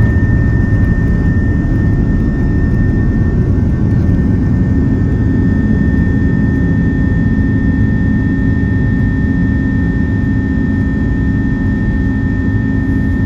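Airbus A330-300 cabin noise in flight: a steady low rumble and rush of jet engines and airflow, with a thin steady high tone running through it.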